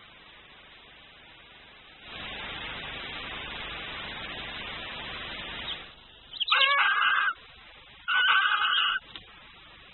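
Barn owls at the nest: a steady hiss lasting about four seconds, then two harsh screeches about a second apart, each just under a second long.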